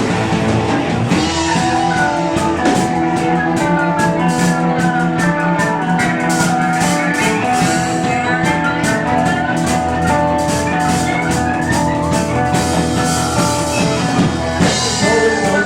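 Live rock band playing without vocals: guitars hold and glide between notes over a drum kit keeping a steady beat on the cymbals.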